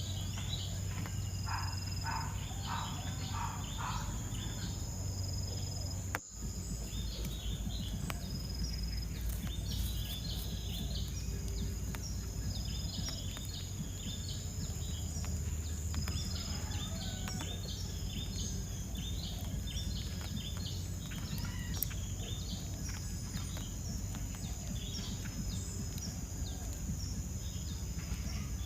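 Many short, high chirps from small birds, repeated throughout, over a steady high-pitched insect drone. The sound drops out briefly about six seconds in.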